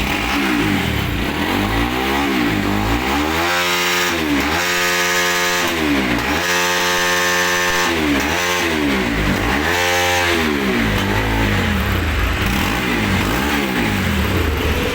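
Freshly serviced motorcycle engine, just started, revved up and down over and over with the throttle, its pitch rising and falling with each blip.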